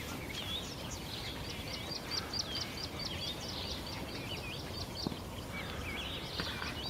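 Small birds singing: a quick run of short, repeated high notes in the middle, with scattered wavering whistles before and after, over a faint steady background hiss.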